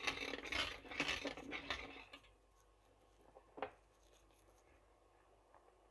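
Kitchen utensils scraping and rubbing for about two seconds while salt is spooned into the pot, then a single short knock.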